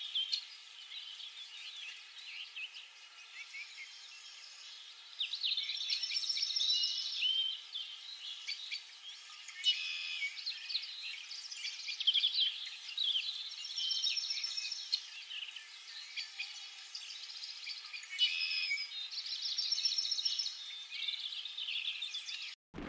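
Songbirds singing: overlapping chirps and quick trills that come in phrases every few seconds.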